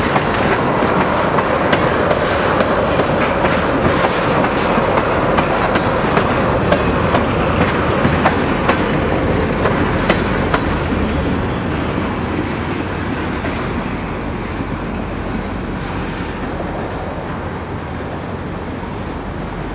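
Freight train of tank cars rolling past, its wheels clicking over the rail joints in a steady rumble that fades over the last several seconds as the end of the train moves away.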